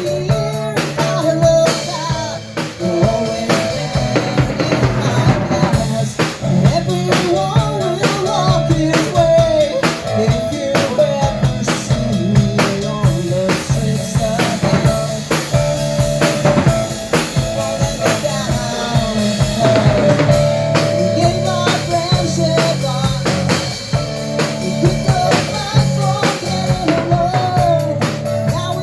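Rock band playing live, with a drum kit keeping a steady beat on kick and snare over bass.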